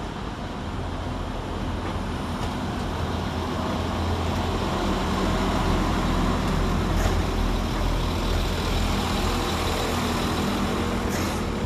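Diesel multiple unit's underfloor diesel engines running at the platform, a steady low rumble that grows louder over the first few seconds and then holds, with a few faint clicks.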